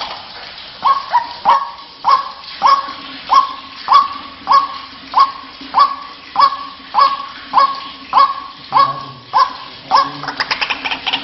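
White-breasted waterhen calling: a steady series of loud, sharp 'kwak' notes, about three every two seconds. Near the end it breaks into faster chatter.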